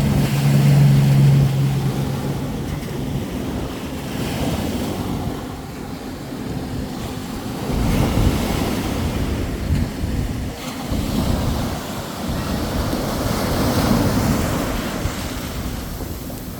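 Ocean waves washing onto the shore, the rush swelling and falling back every few seconds, with wind buffeting the microphone. A steady low engine hum is heard in the first second or so.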